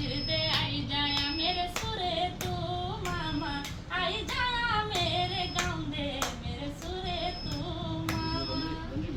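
A woman sings an Uttarakhandi folk song, the melody gliding and ornamented, over music with a sharp clapping beat of about one and a half strokes a second keeping time.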